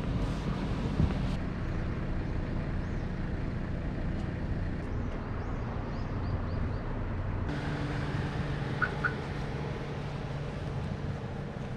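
Honda S660's small turbocharged three-cylinder engine running steadily under way, with tyre and road noise.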